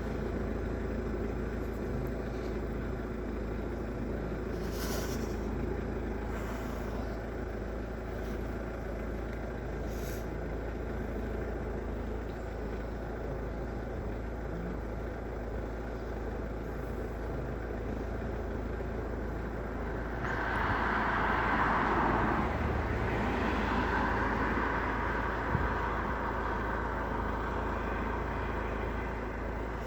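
Road traffic running steadily, with a louder vehicle passing about twenty seconds in.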